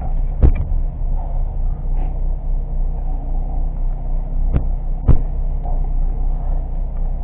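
Car engine idling steadily, heard from inside the cabin, with a few sharp knocks about half a second in and twice near five seconds.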